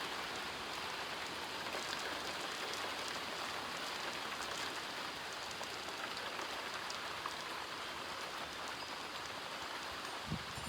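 Steady thunderstorm rain falling, an even hiss with faint patter. A soft low thump comes near the end.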